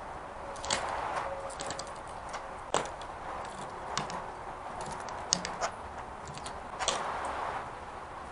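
A California scrub jay handling peanuts in the shell: a handful of sharp, irregular clicks and taps over a steady hiss.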